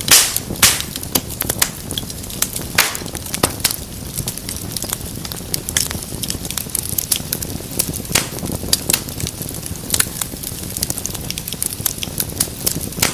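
Wood fire burning in a fireplace: steady irregular crackling with sharp pops, the loudest just after the start, over a low rumble of flames.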